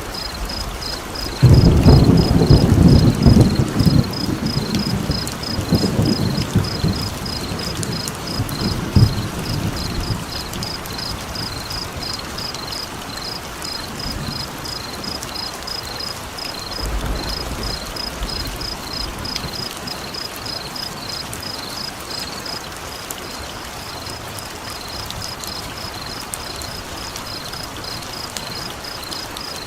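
Steady rain with a roll of thunder: a loud low rumble starts about one and a half seconds in and dies away over the next several seconds, and a fainter rumble comes around the middle. Throughout, a high chirping call pulses about three times a second.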